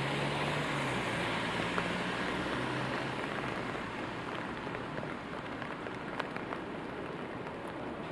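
Steady rainfall in city traffic, with a vehicle's low hum on the wet street fading away over the first few seconds. Scattered drops tick sharply in the second half.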